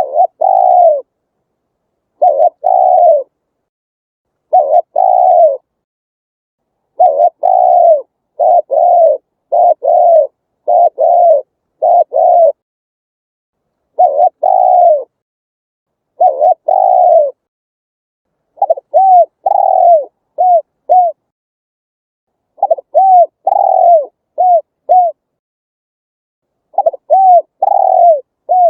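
Spotted dove cooing: repeated phrases of low, downslurred coos, some slow and drawn out, others quicker runs of three or four short notes, with clean silent gaps between phrases.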